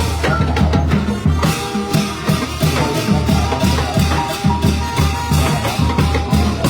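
Thai trae wong brass band playing a lively tune: a steady, driving drum beat under held horn notes.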